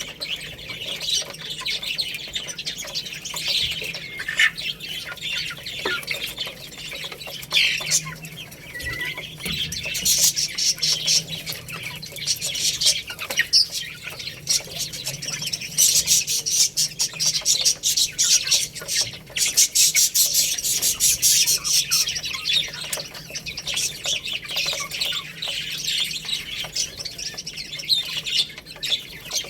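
A group of baby chicks peeping and chirping nonstop in a dense chorus of short, high-pitched calls.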